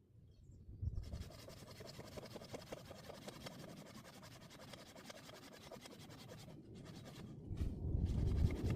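Hand saw cutting in steady back-and-forth strokes: a continuous rasp that starts about a second in. A louder low rumble comes in near the end.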